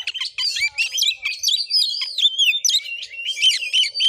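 Oriental magpie-robin (kacer) singing: a fast, unbroken string of varied whistles, chirps and slurred notes.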